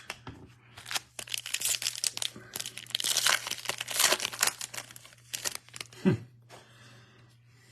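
Foil wrapper of a 2023 Bowman baseball card pack being torn open and crinkled. The dense crackle starts about a second in and lasts about four seconds.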